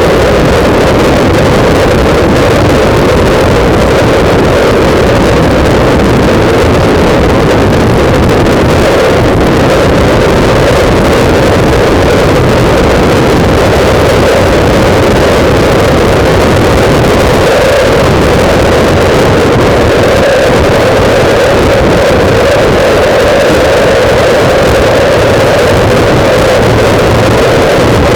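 Loud, steady wind buffeting on a motorcycle-mounted camera's microphone while riding, with a constant engine drone underneath.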